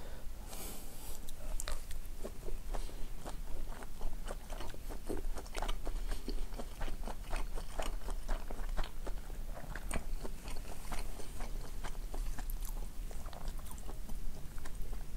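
A person chewing a mouthful of okonomiyaki (savory cabbage pancake): a steady run of soft, irregular wet mouth clicks and light crunches, several a second.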